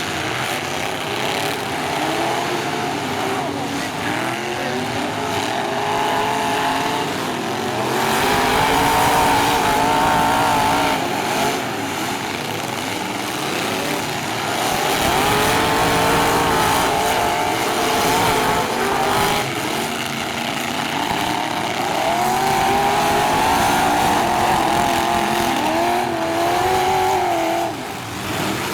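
Engines of several full-size demolition derby trucks revving hard during a heat, their pitch rising and falling again and again as the trucks accelerate and back off.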